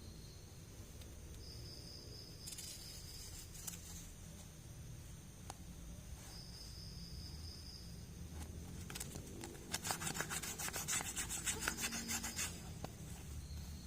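Close-up rubbing and scratching of small toy packaging being handled, with a few faint taps at first, then a dense run of quick scratchy strokes about ten seconds in.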